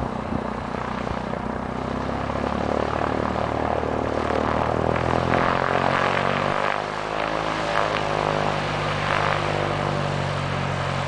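Cessna 172 single-engine propeller plane passing, a steady engine-and-propeller drone that grows louder over the first several seconds, with the engine note shifting lower about six and a half seconds in as it goes by.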